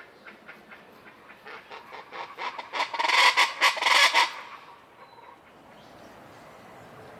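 Common chachalacas calling: a run of rapid, harsh repeated notes that grows louder, peaks between about three and four seconds in, and breaks off abruptly.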